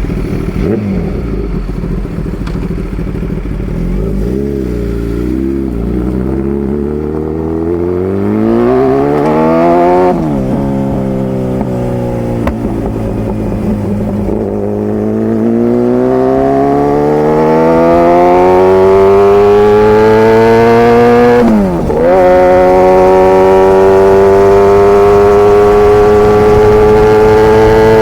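Kawasaki ZX-10R inline-four engine through an SC-Project CRT carbon exhaust, accelerating: the engine note rises in pitch, falls sharply at a gear change about ten seconds in, climbs again for a long stretch, dips briefly at another change a little past the middle, then holds high and steady near the end.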